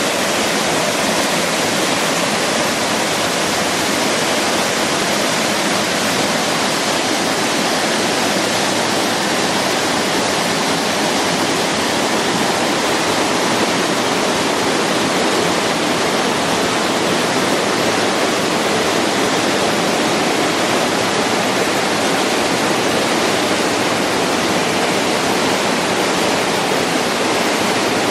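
Waterfall: water rushing down steadily in an even, loud, unbroken hiss.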